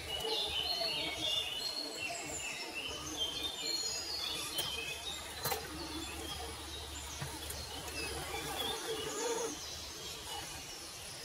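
Several birds chirping and singing in many short, overlapping calls over a steady outdoor background, with two sharp clicks near the middle.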